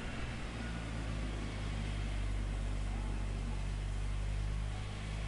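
Steady low engine hum, unchanging, over a wash of background noise.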